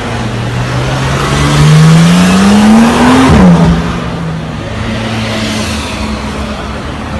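A supercar engine accelerating hard, its note climbing steadily through one gear, then an upshift about three seconds in drops the pitch and it pulls on more evenly as it passes.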